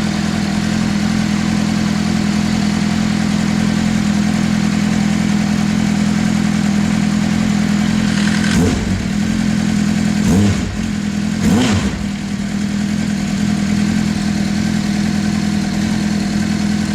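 2003 Honda CBR600RR's inline-four engine idling through twin Arrow aftermarket exhausts, with three short throttle blips a little past the middle, each rev rising and dropping quickly back to idle.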